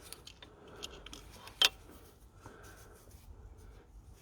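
Faint light clicks and taps of a diesel fuel injector being handled and lowered into its bore, with one sharper click about one and a half seconds in.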